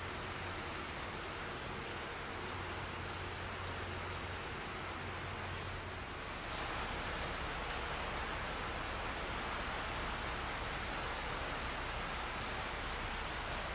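Steady rain falling on foliage, an even hiss with a few sharper drip ticks in the first seconds and a low hum underneath.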